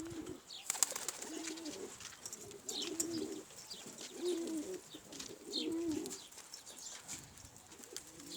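Domestic pigeons cooing, a string of low coos about a second apart.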